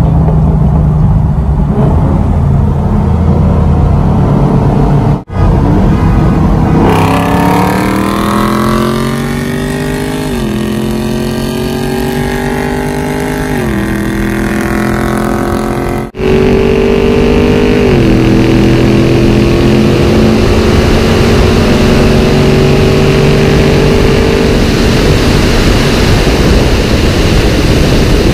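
V8 engine of a 2017 Camaro 1SS at full throttle, heard from inside the cabin. After a few seconds of steady cruising the engine note climbs hard, and its pitch drops at each upshift, three times. The sound cuts out briefly twice.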